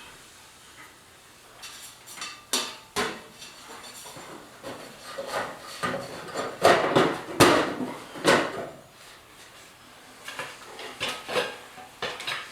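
Irregular clicks, knocks and rubbing from hands working the wiring and metal housing of an eight-foot LED shop light fixture while making its electrical connection, busiest a little past the middle.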